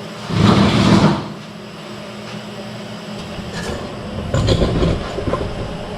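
Rattling, scraping metal handling noise for about a second, then a cluster of knocks and clicks about four seconds in.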